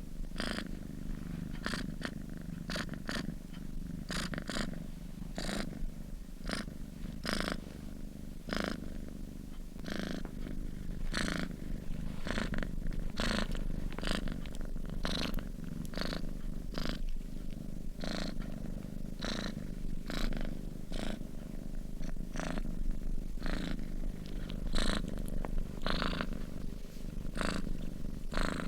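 Sleeping domestic cat purring close up: a low continuous purr with a regular breathy pulse, about one to two a second, as it breathes in and out.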